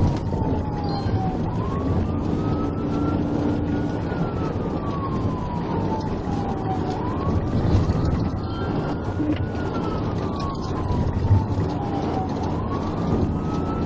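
Police car siren in wail mode, slowly rising and falling about every five to six seconds, over steady engine and road noise from a moving patrol car.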